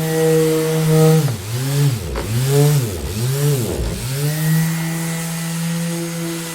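Electric orbital sander running with a steady hum. About a second in, its speed sags and recovers three times, the pitch swooping down and back up, before it settles back to a steady run.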